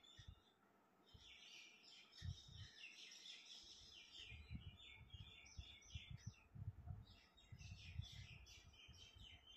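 Faint chirping of small birds in two runs of quick high calls, with soft low bumps underneath.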